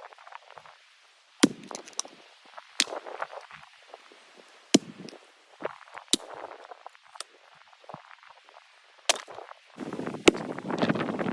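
Axe chopping firewood: sharp single strikes on wood, about six of them, coming irregularly every one to two seconds, with rustling and crackling of handled wood and chips between them that thickens near the end.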